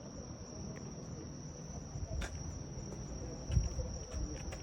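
Steady high-pitched insect trill over a low rumble, with a few faint clicks and a dull thump about three and a half seconds in.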